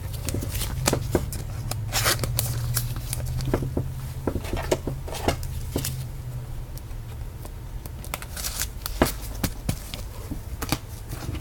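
Football trading cards being handled and shuffled by hand: irregular soft clicks and rustles of card stock, over a steady low hum.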